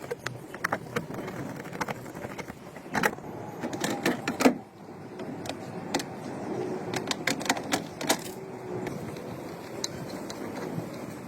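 Irregular sharp clicks and light knocks from handling tools and parts, the loudest about four and a half seconds in, over a steady background noise.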